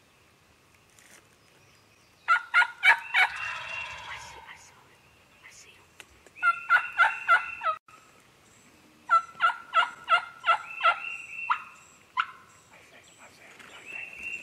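Wild turkeys calling: three loud runs of rapid, rattling notes a few seconds apart, then a single note.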